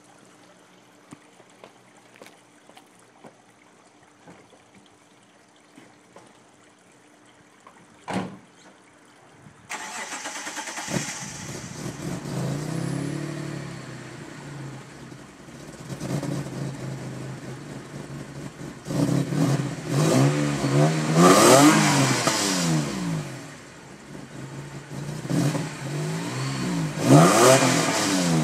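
Mitsubishi 3000GT's 3.0-litre V6, breathing through long-tube headers into the stock exhaust and catalytic converter, is started about a third of the way in, then idles with a rumble and is revved up and back down several times, the longest rev in the middle and a sharp one near the end. Before the start there are only faint clicks and a brief thump. A slight whoosh that sounds like a blow-off valve is only the phone microphone; there is none on the car.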